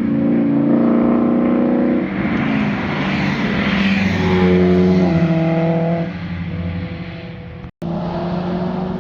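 Performance car engines passing one after another, their exhaust notes held at steady revs, then one note falling in pitch as a car goes away near the end. The sound cuts out for an instant shortly before that.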